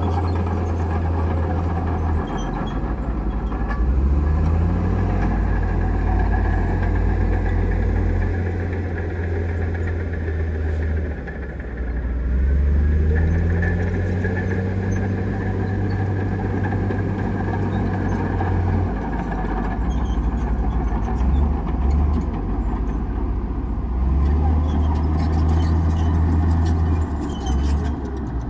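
Komatsu D58E crawler bulldozer's diesel engine running, its low drone repeatedly rising and dropping as it comes onto and off load while pushing dirt.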